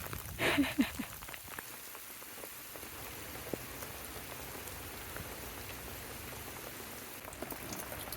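Steady rain mixed with sleet pattering down. A brief vocal sound comes in the first second.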